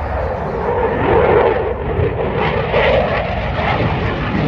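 Eurofighter Typhoon FGR4's twin EJ200 jet engines heard in flight as the aircraft passes, a loud rushing jet noise that grows louder.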